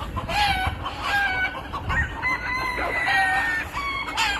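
Chickens, several roosters and a hen, clucking and squawking over one another in a commotion as the roosters chase the hen. One long held call stands out near the middle.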